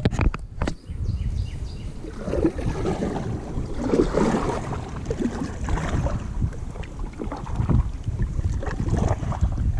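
Wind buffeting the microphone with a steady low rumble, over water moving around a kayak on a river current; a few sharp knocks just at the start.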